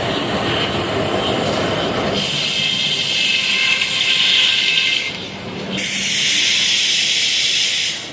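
Sawmill running and its blade cutting through a log: a steady mechanical rumble, then a loud high hiss from about two seconds in, easing briefly near the middle and returning.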